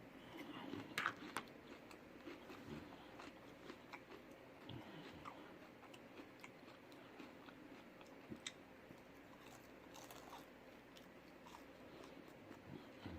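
A person chewing and biting food close to the microphone: quiet mouth sounds with scattered small clicks, a few louder ones about a second in.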